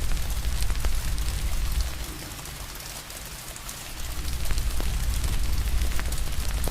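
Steady rain hiss with a crackling fire giving scattered sharp pops, over a deep low rumble. The rumble drops out for about two seconds in the middle, then returns.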